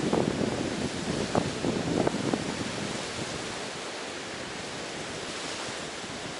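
Sea surf on a beach, louder and rumbling in the first few seconds, then easing into a steady hiss of water and wind.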